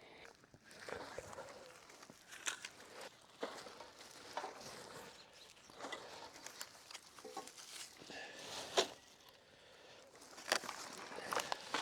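Irregular footsteps and crinkling of litter as trash is picked up by hand around a campsite.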